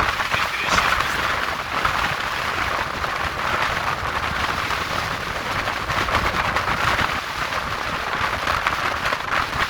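Sea waves breaking and washing ashore in a strong wind, with the wind buffeting the microphone: a loud, continuous rushing noise with a low rumble, swelling about a second in.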